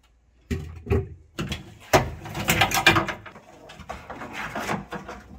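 Handling noises of car wiring and fittings being worked loose from the rear panel: a few sharp knocks, then a busy stretch of clattering and rustling that eases off near the end.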